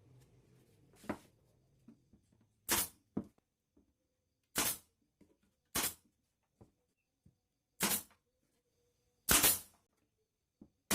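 A series of separate sharp knocks, about seven, spaced irregularly a second or two apart, with the loudest, doubled knock near the end: tool work on the cage parts.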